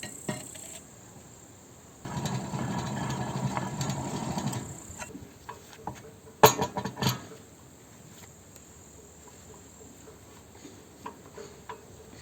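Hand work on a mower deck's spindle and pulley assembly: a couple of seconds of dense rattling from about two seconds in, then a few sharp metallic clanks, then light ticks of parts being handled.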